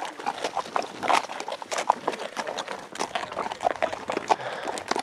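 Horse hooves clopping on the trail as the horse is ridden: a run of sharp, irregular knocks.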